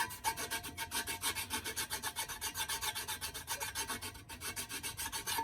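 Hand file rasping across a metal edge to take off a burr, in quick even strokes, about four or five a second, with a faint metallic ring at the start and end.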